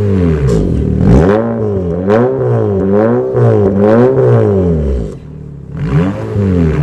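Honda HR-V engine being revved through an aftermarket full-system stainless valved exhaust, its pitch rising and falling in repeated blips about once a second. Near the end the revs drop briefly and quieter, then pick up again.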